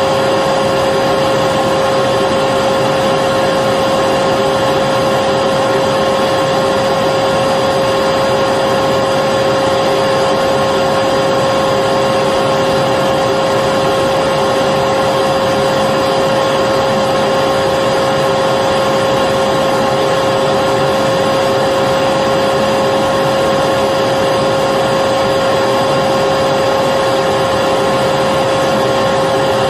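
Electric vacuum cleaner running continuously at a steady pitch: an even rushing noise with a constant motor whine, with no change in speed or load.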